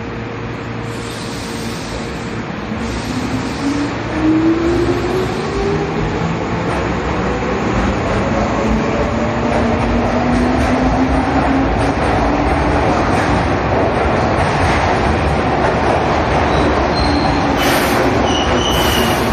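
Keihan electric train pulling out of Yodoyabashi station, its motors whining in a steadily rising pitch as it gathers speed over a growing rumble of wheels on rail. A few short hisses, and a brief high squeal near the end.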